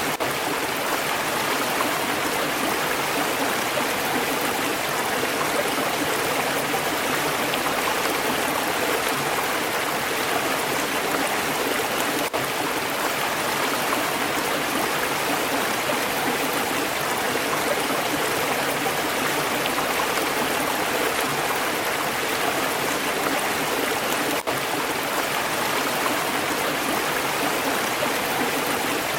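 Stream water flowing steadily, a constant even rush of water.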